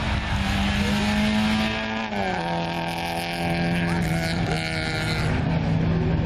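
Peugeot 205 hatchback's engine running hard through a slalom. The note holds steady, drops in pitch about two seconds in, and holds at the lower pitch.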